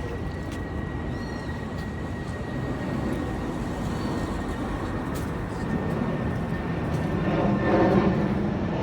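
Urban street ambience: a steady wash of traffic noise, with a louder pitched passing sound swelling near the end.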